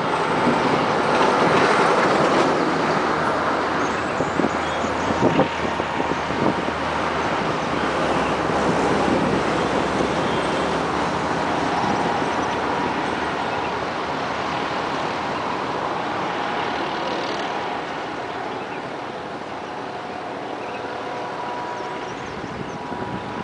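Narrow-gauge Kalka–Shimla toy train running along a winding hillside track, its wheels rumbling and clattering on the rails, with a few sharper clanks about five seconds in. The sound slowly fades as the train draws away.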